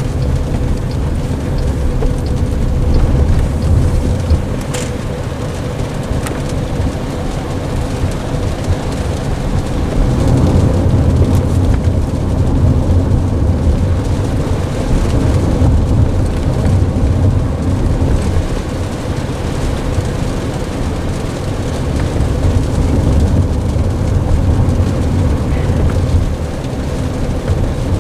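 Inside the cabin of a moving Waymo self-driving car: a low road and tyre rumble that swells and eases every few seconds, with a faint steady hum and a few light ticks, and rain on the car in the background.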